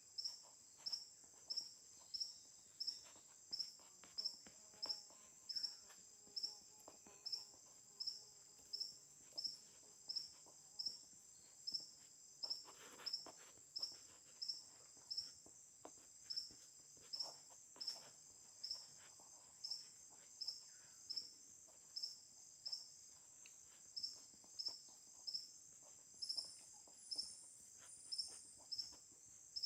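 Insect chorus, likely crickets: a steady high-pitched buzz with a louder chirp repeating evenly about once every 0.7 seconds. Faint ticks and rustles sound underneath, and three short higher chirps come near the end.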